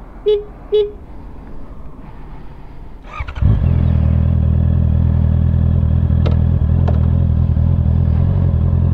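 Short beeps near the start, then about three seconds in the Honda CBR650R's inline-four with its Akrapovic exhaust is started: a brief starter crank, then it catches and settles into a steady idle.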